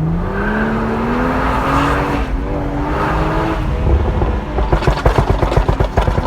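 Stage 2 tuned BMW 340i F30's turbocharged inline-six accelerating, its engine note rising steadily for about three and a half seconds. On lift-off it gives a rapid string of exhaust crackles and pops for about two seconds, from the tune's crackle map.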